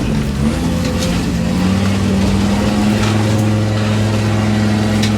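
Off-road 4x4's engine revving up over about the first second and a half, then held at steady high revs.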